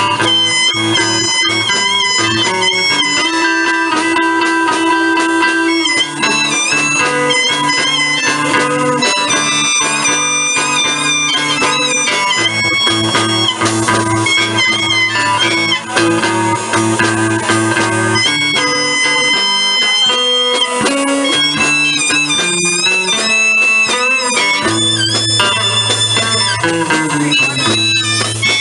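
Live blues played without vocals: guitar over a repeating bass line, with a lead line of sustained, bending notes.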